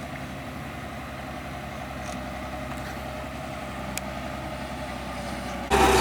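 Diesel engine of a motor grader or road roller running steadily, with an even low hum and regular firing pulses. Near the end the sound abruptly jumps much louder.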